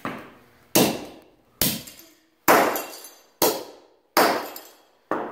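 A wrecked scale model car being hit hard over and over, about seven blows roughly one a second, each a sharp crack with a short clattering ring-out of breaking plastic and glass-like parts.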